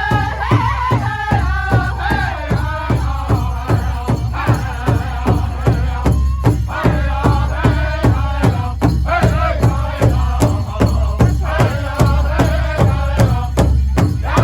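Powwow drum group performing a men's traditional song: several men singing in chant together over a big powwow drum struck in a steady, even beat.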